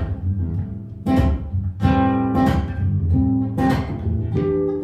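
Acoustic guitar strummed in a rhythmic pattern of chords, each stroke ringing on, with no singing over it.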